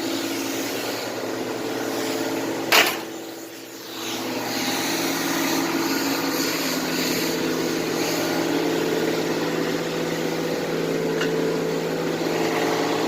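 1996 Oldsmobile Cutlass Ciera's engine idling steadily. A single sharp thud about three seconds in is the loudest moment, and the idle sound drops briefly after it before returning.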